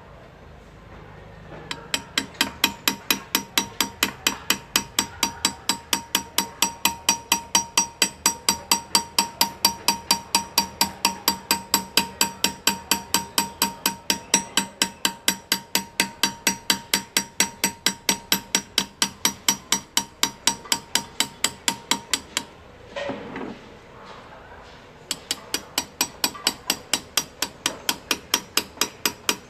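Hand engraving: a small chasing hammer tapping a graver into metal in a steady rhythm of about four light, ringing strikes a second. The tapping stops for a couple of seconds near the end, with one short softer sound in the pause, then starts again.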